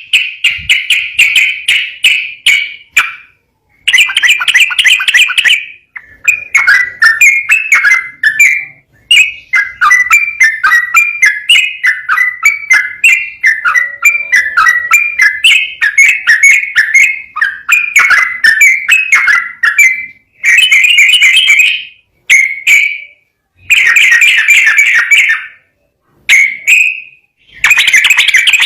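Yellow-vented bulbul (trucukan) singing loudly in fast, chattering runs of notes. Each phrase lasts a few seconds, with short pauses between them.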